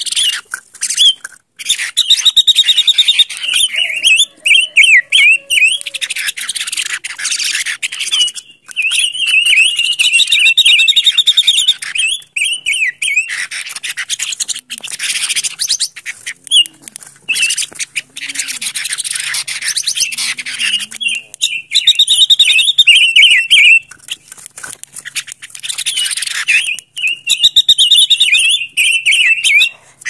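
Silver-eared mesia singing: phrases of quick, wavering notes with a fast high trill, each lasting a few seconds, repeated several times with short pauses between.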